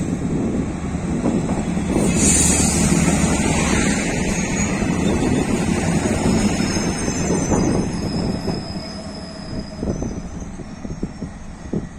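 MAN2000 class 621 diesel multiple unit arriving and passing close by: engine and wheel rumble, loudest in the middle as it goes past. A high-pitched squeal sets in about halfway as it slows, and a few wheel clicks over the rail joints follow near the end as it draws away.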